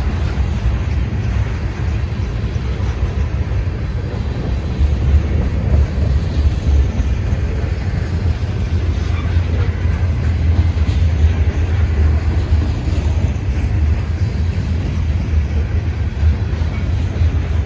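Freight train running with a steady, heavy low rumble.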